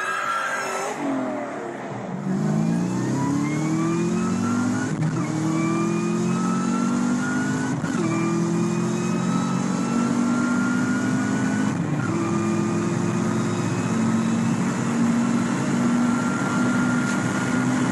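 Supercharged 4.6-litre V8 of a 2003/04 SVT Mustang Cobra accelerating hard under full throttle, its engine note rising through the gears with upshifts about 5, 8 and 12 seconds in. A whine rises and falls along with the engine.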